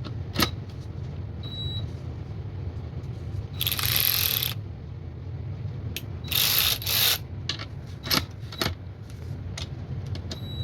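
Cordless 3/8-inch ratchet wrench run in reverse in two short trigger pulls of about a second each, one near the middle and one a couple of seconds later, with a few sharp clicks of handling between them.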